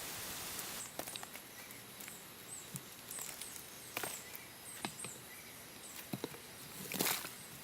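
Scattered light knocks and rustles, with a small cluster of louder knocks near the end and faint short high chirps throughout.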